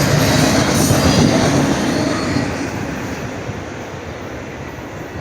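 A train passing on the rails, a loud, even rumble of wheels on track that fades away from about two seconds in as it moves off.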